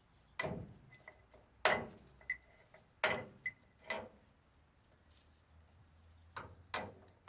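Sharp metal knocks from a hand tool striking and scraping at old undercoat on a dump truck's steel frame, about half a dozen blows spaced roughly a second apart, with a pause in the middle.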